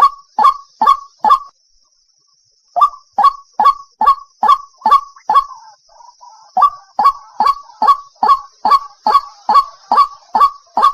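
White-breasted waterhen (ruak-ruak) calls played as a bird lure: loud, sharp calls repeated about two to three times a second, breaking off for about a second and a half after the first few and then running on without pause. A faint steady high hiss sits behind them.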